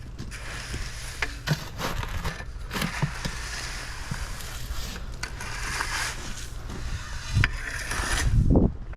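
Crushed 1A bedding stone being spread and screeded, with irregular scraping and crunching strokes of tools dragged through gravel.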